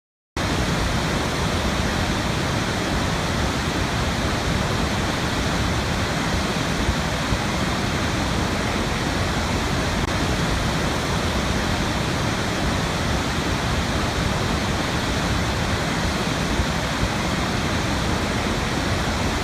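Steady rushing of a waterfall, an even roar of water that starts abruptly and cuts off suddenly at the end.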